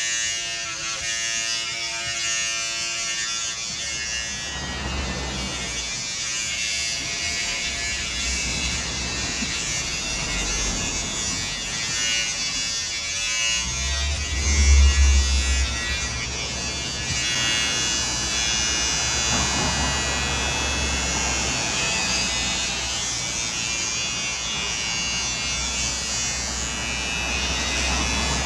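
Electric hair clippers running steadily, buzzing as they cut hair, with a deeper rumble for a second or two about halfway through.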